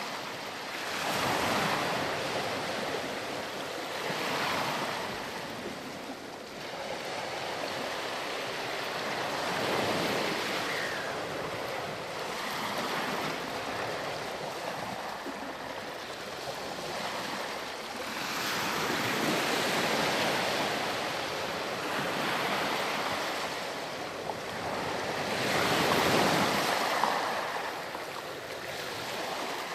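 Ocean surf breaking and washing up a sandy beach, the backwash of the waves swelling and easing every few seconds, with the biggest surge near the end.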